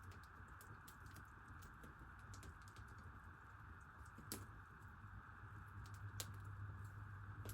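Near silence: a steady faint hiss and low hum, with scattered small crackling clicks, two slightly louder ones about four and six seconds in.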